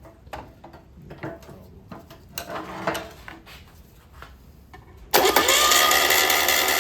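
A few small knocks, then about five seconds in a single-port air-cooled VW Beetle flat-four engine is spun over by its starter motor for about two seconds without firing, cranking it to build oil pressure.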